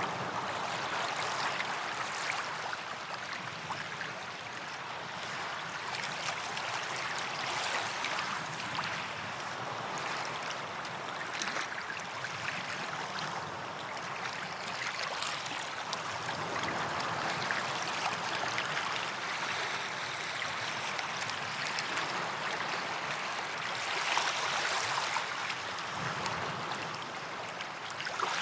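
Small waves lapping and washing onto a sandy beach, a steady hiss of water with gentle swells as each wave comes in, one a little stronger near the end.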